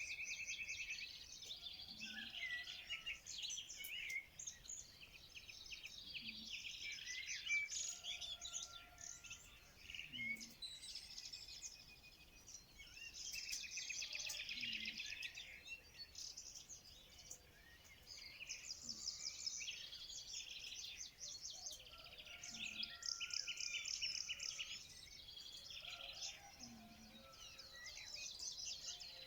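Several songbirds chirping and singing at once: high-pitched overlapping calls and rapid trills, one after another without pause.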